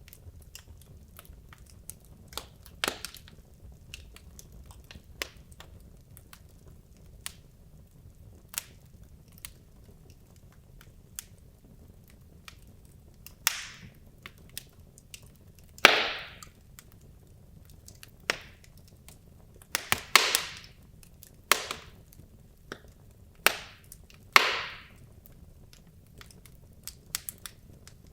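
Wood logs burning in a fireplace, crackling with scattered sharp pops. The pops grow louder and come closer together in the second half, over a low steady background noise.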